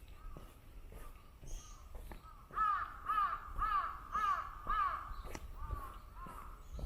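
A crow cawing: a run of five loud, harsh caws about twice a second in the middle, with fainter caws before and after. Steady walking footsteps sound underneath.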